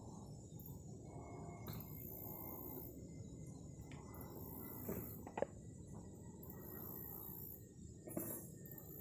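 Insects trilling in very high-pitched bursts of about a second each, with short gaps between, over a low outdoor rumble. A couple of sharp knocks sound near the middle and near the end, the one in the middle the loudest.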